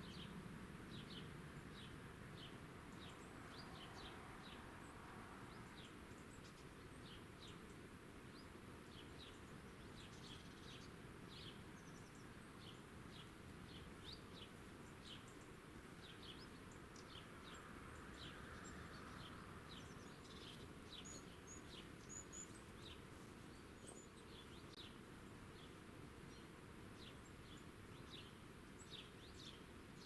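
Faint countryside ambience of small birds chirping: short high chirps repeating about once or twice a second over a steady low hiss, with a few thinner, higher calls about two-thirds of the way through.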